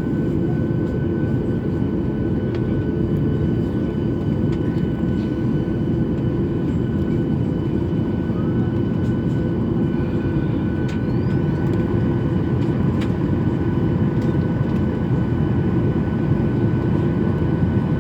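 Steady noise inside a jet airliner's cabin on the ground before takeoff: a dense low engine rumble with a few steady whining tones over it.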